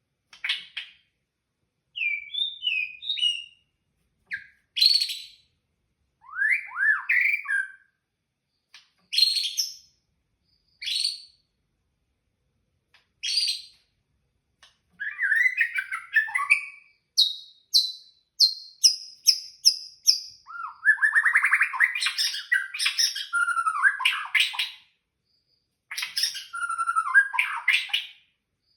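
White-rumped shama (murai batu) singing a varied song of clear whistles, pitch sweeps and rapid trills. The phrases come in short bursts with pauses at first, then run almost without a break from about halfway.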